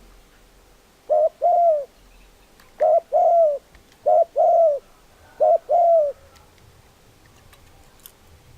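Spotted dove cooing: four two-note calls, each a short coo followed by a longer, slightly falling coo, about one every second and a half.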